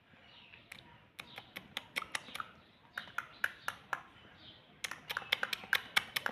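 Parrot making irregular runs of sharp clicks, coming faster near the end, with a few faint squeaky notes.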